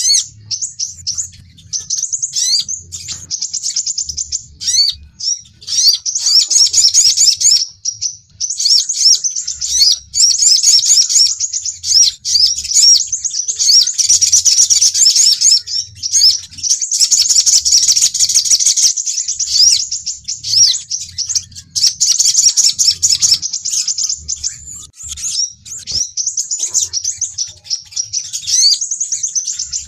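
Sunbirds' lure call: fast, high-pitched chirping and twittering trills in dense runs broken by short gaps.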